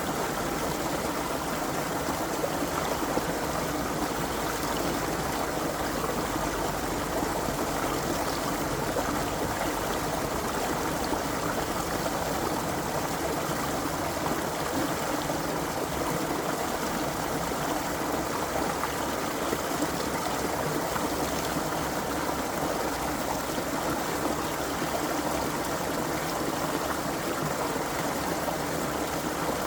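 Water of a small creek running and splashing over stones, a steady even rush.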